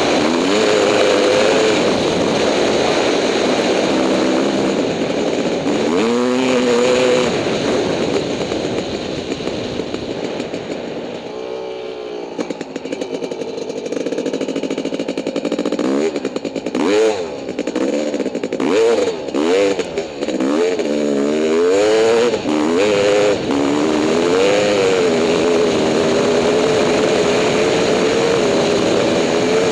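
Honda CR500 single-cylinder two-stroke dirt bike engine running hard. It eases off around a third of the way in, then revs up and down quickly several times in the middle before settling back to a steady pull.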